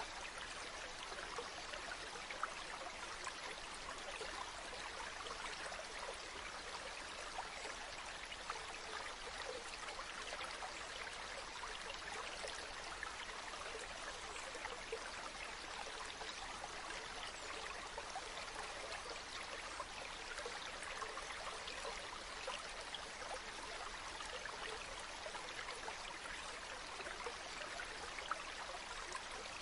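Flowing river water: a steady rush with many small splashes and trickles, even and unchanging throughout.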